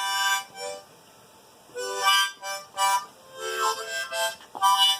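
Harmonica playing short phrases of reedy notes, with a pause of about a second near the start.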